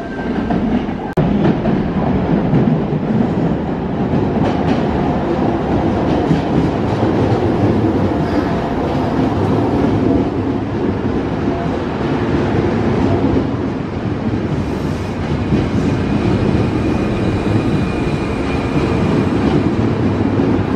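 Electric commuter train running along a station platform, a steady loud rumble of wheels and running gear on the rails. A faint high whine comes in near the end.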